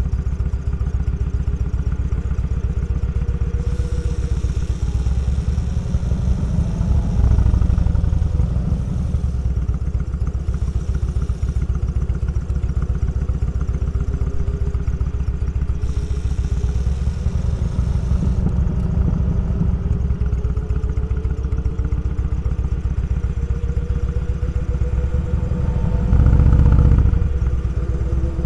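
Motorcycle engine running steadily on the move, its pitch drifting gently up and down, with a brief louder surge near the end.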